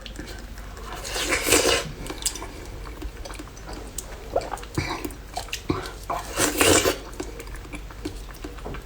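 A spoon clinking against a container of frozen Mizone sports-drink slush ('sponge ice'), with two longer scraping bursts, about a second in and again about six seconds in.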